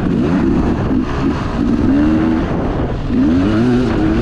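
Beta 300 two-stroke dirt bike engine revving hard under acceleration, its pitch climbing and falling back several times as it is ridden.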